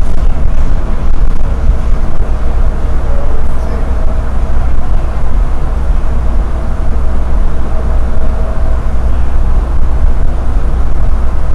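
Airport people-mover train car running between stations, heard from inside the car: a loud, steady low rumble with a faint whine on top. The rider calls it a very noisy processor.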